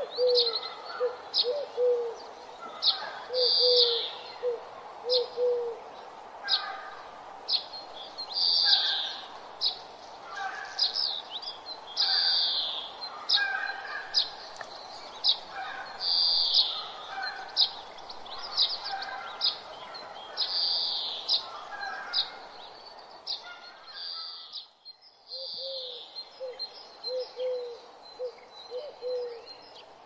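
Birds singing and chirping: short high chirps and trills repeating throughout, with a series of short lower calls in the first few seconds and again over the last few seconds. The sound drops away briefly a little past the middle.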